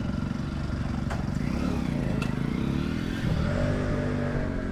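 Motorcycle engine running close by, its pitch dipping and rising twice.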